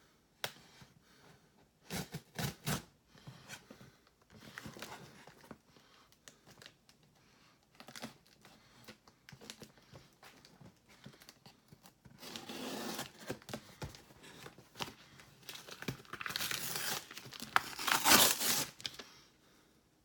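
Packing material being crinkled, rustled and torn by hand as a box is unpacked: scattered crackles, a longer rustle about twelve seconds in, and the loudest tearing near the end.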